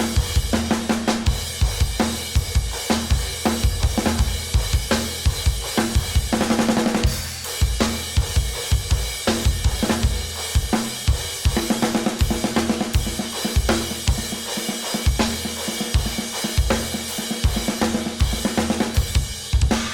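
Drum kit played: a 6.5x14 aluminum snare (SJC Custom Drums Alpha, Remo Powerstroke 3 head) with a dry crack, over kick drum, hi-hats and cymbals, with a quick fill about a third of the way in.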